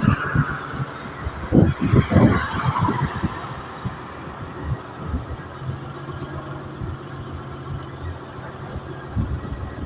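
Heavy construction machine engine running, with a few sharp metal knocks about two seconds in as a steel reinforcement cage is handled into the pile. An engine hum settles in about halfway through.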